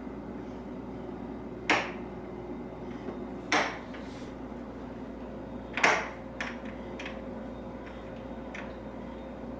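Three sharp knocks, roughly two seconds apart, with a few lighter clicks between them, over a steady hum whose pitch steps up about six seconds in.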